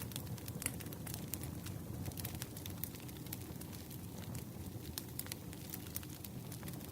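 Campfire crackling: a steady low rumble of burning wood with frequent, irregular sharp pops and snaps.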